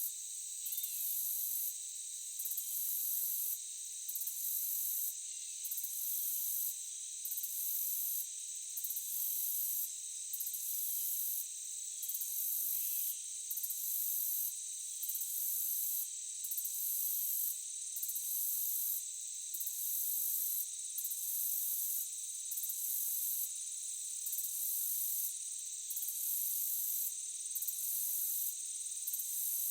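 Forest insects chirring: a very high trill that pulses on and off about every one and a half seconds over a steady, unbroken insect drone.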